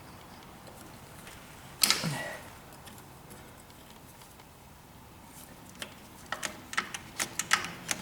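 A hand tool working at steel nails used as pins in a car's shifter linkage: one sharp metal clank with a short ring about two seconds in, then a quick run of small metallic clicks and taps near the end.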